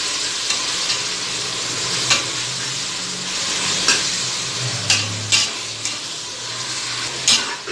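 Chopped tomatoes and onions sizzling in hot oil in an aluminium pressure cooker, a steady frying hiss, while a metal spoon stirs them, scraping and knocking against the pot several times.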